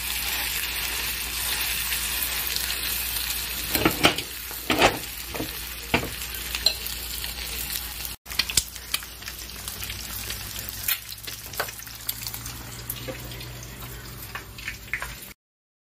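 Bacalaito (salt cod fritter) batter frying in a pan of hot oil: a steady sizzle, with several sharp clicks about four to six seconds in. The sound breaks off for an instant about halfway through and then cuts out suddenly just before the end.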